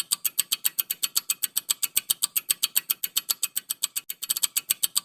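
Rapid, evenly spaced clock-style ticking, several ticks a second, from a countdown-timer sound effect during the quiz's answer pause; the ticking breaks off briefly about four seconds in.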